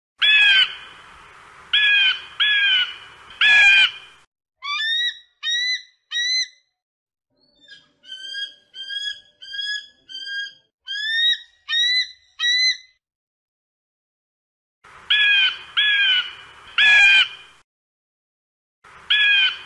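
Bald eagle calling: four loud harsh squawks, then a run of about a dozen short, high whistled notes that each slide upward, then more squawks near the end.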